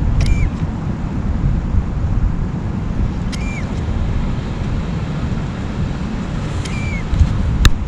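Wind buffeting the microphone: a steady low rumble. Three short chirps come about three seconds apart, and a sharp click is heard near the end.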